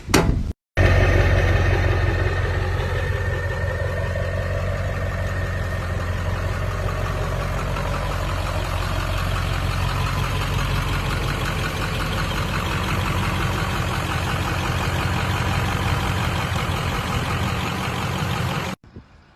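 A truck engine running steadily with a deep low rumble.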